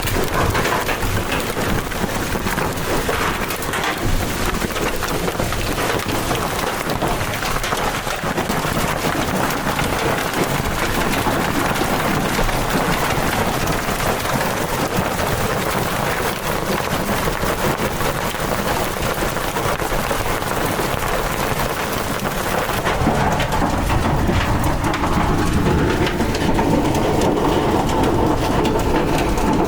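Steady rain falling, a dense even hiss. About three-quarters of the way through the hiss softens at the top and a few steady tones come in beneath it.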